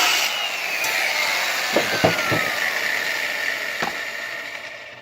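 Valve seat grinder spinning a stone on an exhaust valve seat of a small-block Chevy 882 cylinder head, cutting the 30-degree angle of a two-angle valve job. It makes a steady grinding whine that falls in pitch, with a few light knocks about two seconds in and again near four seconds, and slowly fades.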